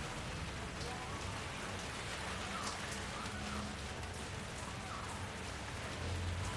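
Steady rain falling, an even hiss with single drops heard now and then.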